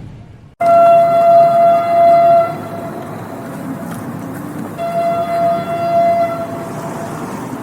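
Train horn sounding two long blasts of about two seconds each, a steady pitched tone over the rumble of the train. It starts abruptly about half a second in, after a brief drop to near silence as the previous train sound fades out.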